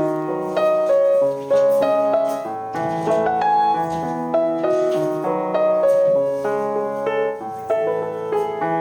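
Background piano music, gentle and steady, one note or chord after another.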